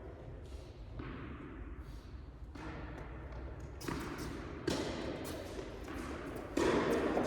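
Tennis balls being struck by rackets and bouncing on an indoor court during a rally: a series of irregular thuds, each with a short echo from the hall.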